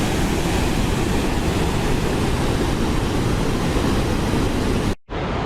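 Waterfall rushing steadily, a dense roar of falling water heaviest in the low end. About five seconds in it cuts off for an instant and resumes as a slightly duller rush.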